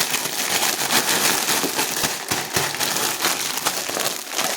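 Plastic crisp multipack bag being handled close to the microphone, a steady dense crinkling and crackling.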